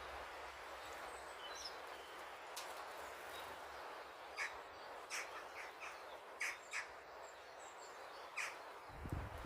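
Birds calling at a garden bird table: faint high chirps at first, then a quick series of short, sharp calls from about halfway through, over a steady outdoor hiss.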